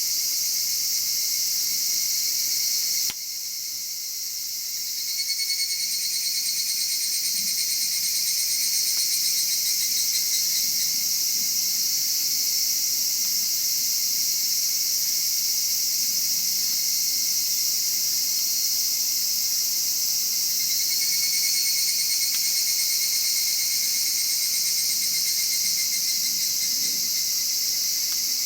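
A steady chorus of insects trilling, with pulsing trills that swell and fade. The chorus drops suddenly about three seconds in and builds back over the next two seconds.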